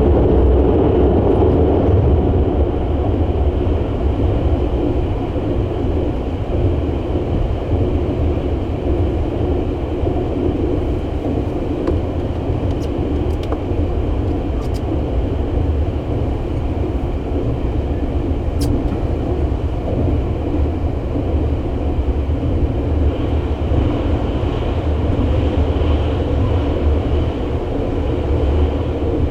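285-series Sunrise Express sleeper train running at speed, heard on board as a steady, loud rumble of wheels and running gear.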